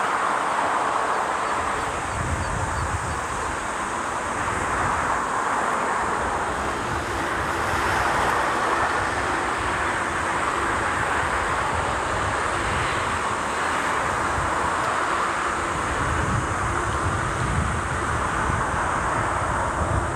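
Jet airliner engine noise, a steady rushing sound, with strong wind gusting on the microphone.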